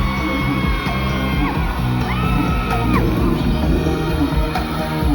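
Live pop music played loud through concert speakers with a heavy, steady bass beat, while a crowd of fans screams and cheers over it.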